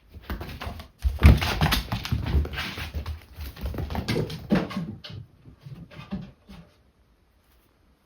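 A kitten and a young Munchkin cat play-fighting: scuffling, thumps and pattering with a few short cat vocal sounds. It is busiest for the first five seconds, then dies down to scattered knocks.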